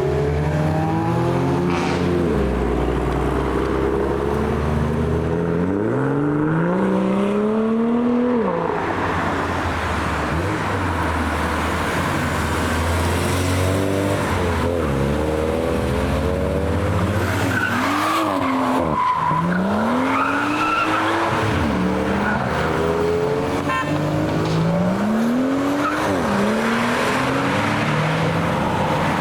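Performance car engines accelerating hard through the gears, one after another, each rising run cut short by a shift. A brief tyre squeal comes about two-thirds of the way through.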